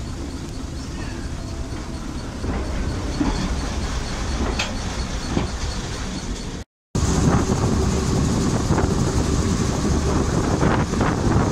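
Ride noise of a moving heritage train heard from a carriage window: a steady low rumble with occasional wheel clicks over rail joints. There is a brief break in the sound about two-thirds through, after which the rumble is louder.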